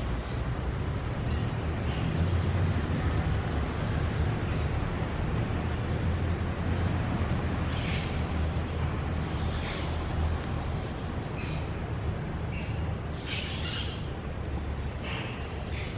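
Birds giving short, high chirps and calls, scattered and coming more often in the middle of the stretch, over a steady low rumble.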